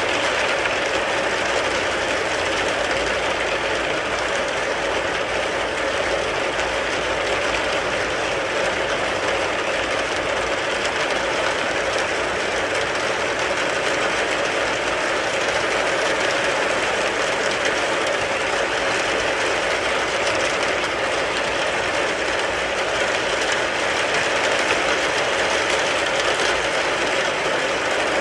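Rain pattering steadily and densely on a car's body, heard from inside the car.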